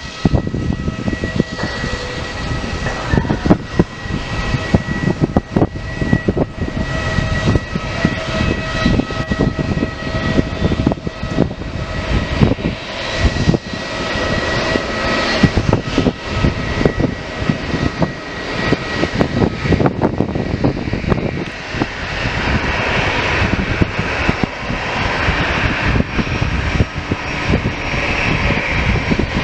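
Airliner engines running at an airport, a steady rumble with thin whining tones over it. Partway through, a louder rushing hiss builds up as the engine noise grows. Irregular low jolts run through the rumble.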